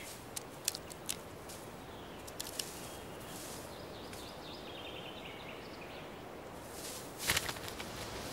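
Red crossbill feeding on a pine cone: a few small clicks and cracks over a steady outdoor hiss. Faint high bird chirps come in the middle, and a brief louder rustle comes near the end.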